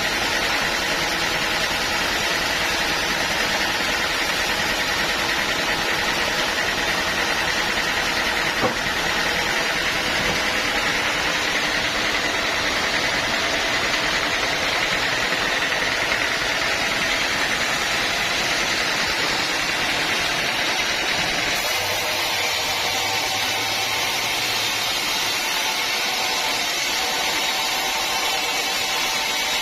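Sawmill machinery running steadily with a constant mechanical hum, its tone shifting about two-thirds of the way through, and a single brief tick near a third of the way in.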